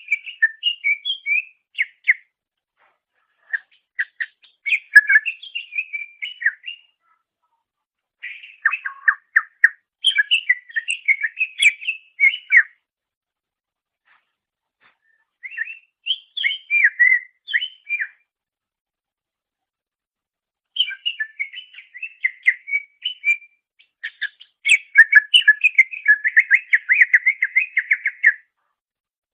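Cucak ijo (green leafbird) singing: bursts of varied, fast whistled and chattering phrases separated by pauses of a second or more. The last and longest phrase ends in a quick run of repeated notes.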